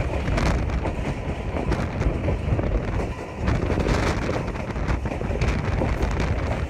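Wind rushing over the microphone on a moving passenger train, over the train's steady running rumble with a few irregular rail clicks.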